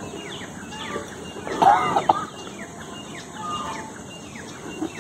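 Small birds chirping throughout, a run of short falling chirps, with a louder short call about two seconds in.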